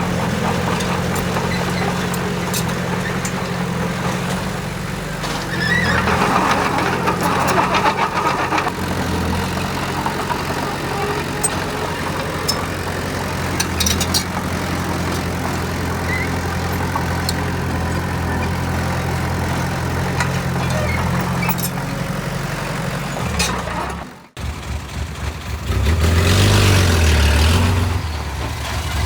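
Heavy construction machine's engine running steadily, with scattered clanks. It grows louder for a few seconds around a quarter of the way in, cuts off abruptly near the end, then comes back louder.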